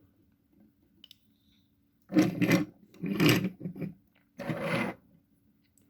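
Handling noise from die-cast toy trucks being moved about: three short scraping rubs, each about half a second long, about two, three and four and a half seconds in.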